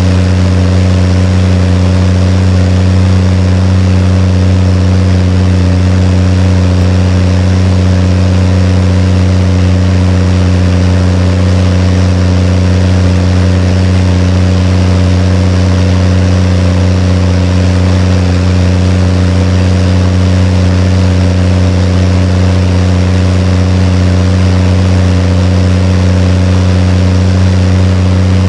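Case IH tractor's diesel engine running at a steady engine speed, a constant drone that holds the same pitch throughout.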